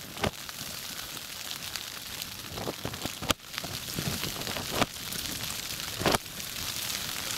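Downpour of rain on the fabric of an ice-fishing tent: a steady hiss, broken by a few sharp knocks.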